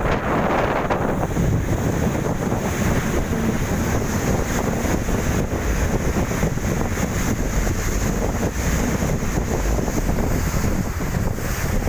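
A fast passenger boat under way: a steady rush of wind and water with a low rumble, and wind buffeting the microphone.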